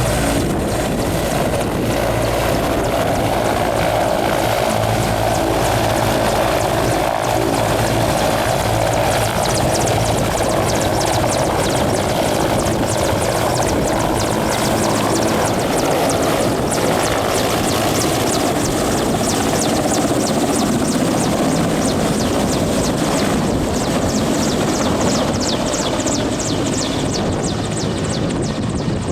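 Mi-8 helicopter taking off, its twin turboshaft engines and main rotor running loudly and steadily. A fast, rhythmic blade chop comes in from about nine seconds in.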